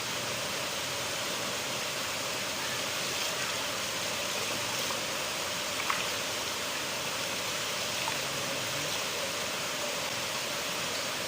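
River water flowing steadily, an even rushing with a few small splashes.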